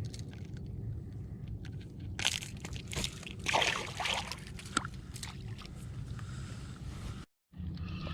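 Water sloshing and splashing against a boat for a couple of seconds in the middle, over a steady low rumble. The sound cuts out completely for a moment near the end.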